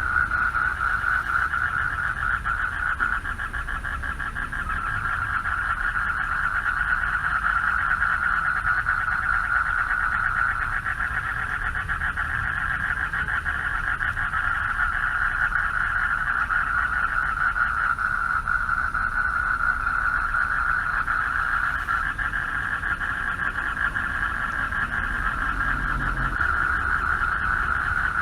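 Chorus of male frogs calling for mates from a pond: many rapid, buzzing trilled calls blend into one continuous high drone, easing slightly a few seconds in, over a low rumble.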